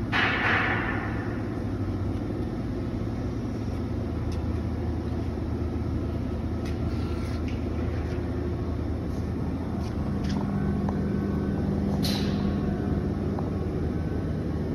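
CNC knife cutting machine running: a steady mechanical hum with a short fading hiss at the start and a few faint clicks. A deeper tone joins the hum about ten seconds in.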